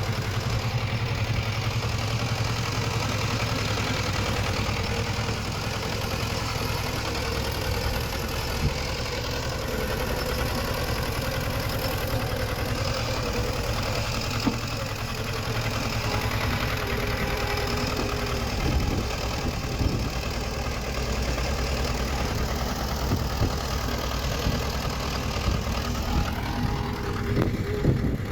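Diesel engine of heavy earthmoving machinery running steadily at a low, even speed, with a few light knocks in the last several seconds.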